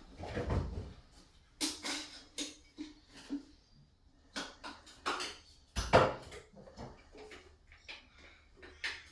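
Irregular clattering and knocking of hand tools and hard shower-panel parts being handled, with a dull thud in the first second and a louder knock about six seconds in.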